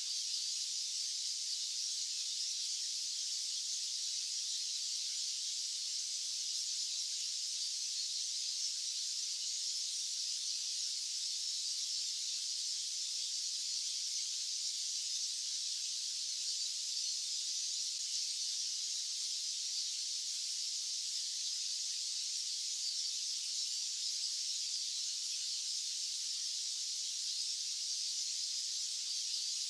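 Steady white noise: an even, unchanging high-pitched hiss with no low rumble and no breaks.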